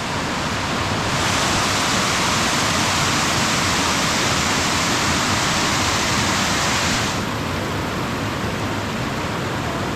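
Steady rush of water from a waterfall, a constant hiss that grows louder and brighter for several seconds in the middle.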